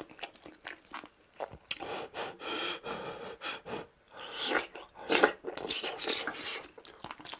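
A man chewing a mouthful of braised tofu and rice close to a clip-on microphone: wet mouth sounds in irregular bursts with small clicks.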